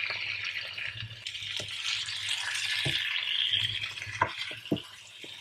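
Cubes of raw goat meat sizzling in fried spice paste in a nonstick wok as a spatula stirs them, with a few sharp clicks of the spatula against the pan. The sizzling eases off after about four seconds.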